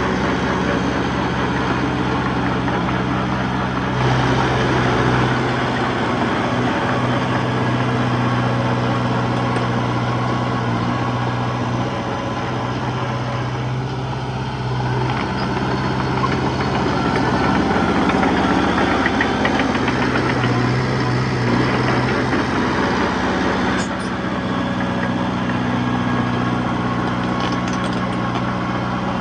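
Diesel engine of earthmoving machinery running continuously, its note getting heavier about 4 seconds in and again between about 17 and 22 seconds as it takes load. A couple of faint ticks sound near the end.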